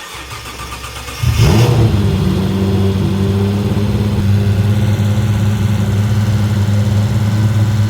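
Mitsubishi GTO's turbocharged 6G72 V6 engine, which comes in suddenly about a second in with a brief flare, then runs steadily at a fast idle.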